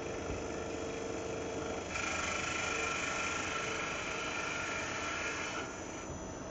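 CNC lathe turning the outer diameter of a steel bar: a steady machine running sound, with a higher whine that comes in about two seconds in and drops away near the end as the cut goes on.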